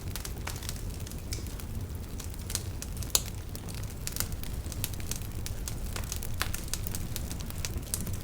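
Wood fire burning: a steady low rumble of flames with irregular crackles and pops, the sharpest snap about three seconds in.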